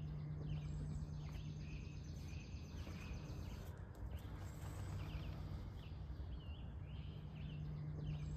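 Small birds chirping in short calls about once a second, over a steady low hum.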